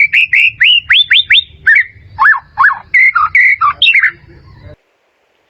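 White-rumped shama singing a fast run of loud, clear whistled notes, several sweeping sharply upward, then a few notes that rise and fall; the song cuts off suddenly near the end.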